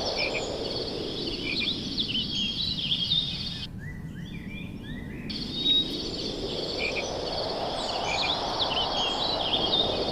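Birds chirping and calling over a steady outdoor background rush. The birdsong drops out for about a second and a half a little before the middle, then returns.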